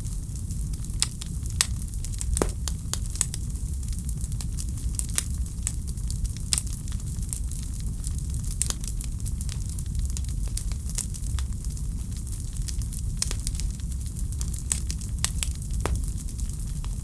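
Wood fire crackling in a fireplace: scattered sharp pops and snaps, several a second, over a steady low rumble.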